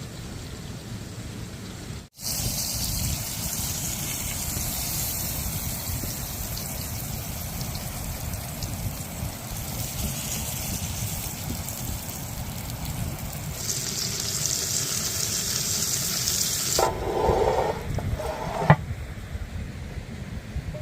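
Steady rush of running water, with a brief cut to silence about two seconds in. Near the end comes a short pitched sound, then a sharp click.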